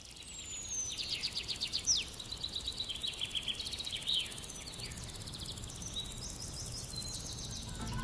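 Small birds singing: quick trills, high chirps and short downward-sliding notes, over a faint steady hiss.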